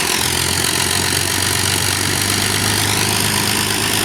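Avro Lancaster's Rolls-Royce Merlin V12 piston engines running steadily on the ground with propellers turning. The high whine dips slightly about three seconds in.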